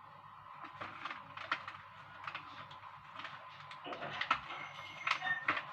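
A series of irregular light clicks and taps, coming thicker in the second half, over a faint steady hum.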